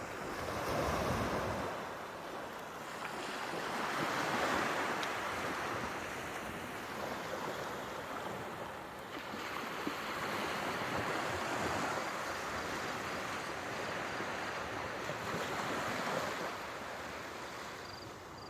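Sea surf washing ashore, the waves swelling and easing every few seconds, with some wind.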